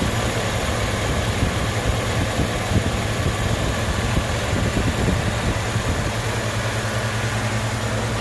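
Truck engine with a freshly swapped camshaft idling steadily, heard close up at the engine.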